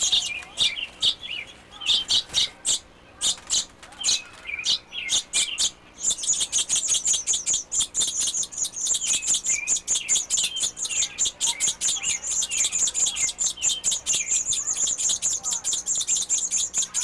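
Nest of baby birds chirping: scattered high chirps at first, then, about six seconds in, a fast continuous high-pitched chatter of begging calls from nestlings being fed by their mother.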